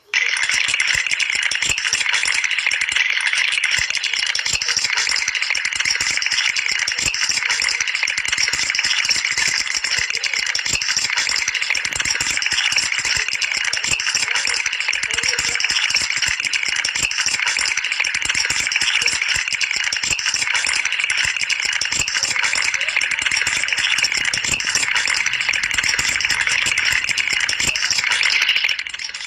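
A long, continuous, fast rattling cartoon sound effect: a dense, even clatter that stays steady for almost half a minute and drops off slightly near the end.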